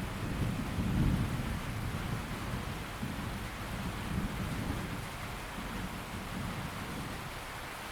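Steady rain with a low rumble of thunder that is strongest in the first second or so and then dies away.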